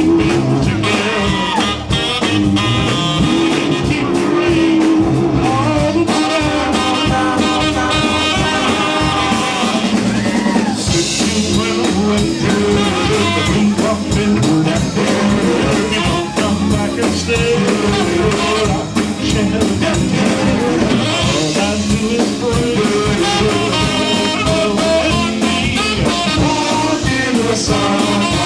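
Doo-wop vocal group singing live with a backing band and drums, through an out-of-calibration PA that distorts the voices.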